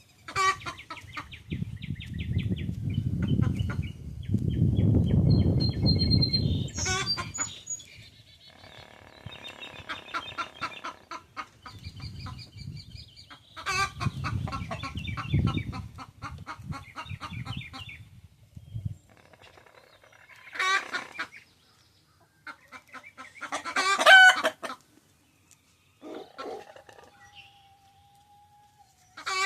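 Chickens clucking and calling while foraging, many short calls in quick runs, with one louder call near the end. Stretches of low noise run under the calls.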